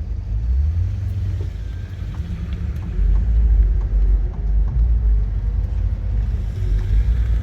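Porsche 986 Boxster's flat-six engine running, with a steady low rumble of road and wind noise. It gets louder about three seconds in.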